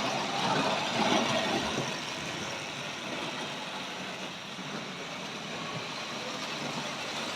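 Hornby model train running on its track: a steady whir and rattle of the locomotive motor and wheels, a little louder about a second in.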